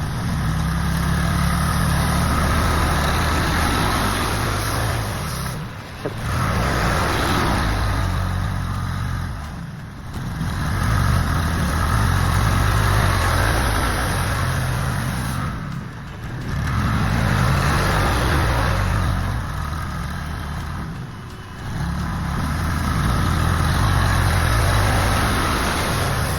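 The engine of a heavy vehicle working under load, rising and easing in long swells about every five seconds, with four short dips between them.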